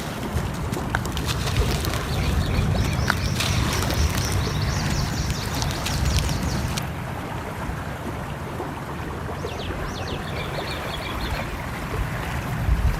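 Layered nature ambience: a steady low rumble under scattered crackles of a wood fire, with birds chirping in two spells, a couple of seconds in and again past the middle.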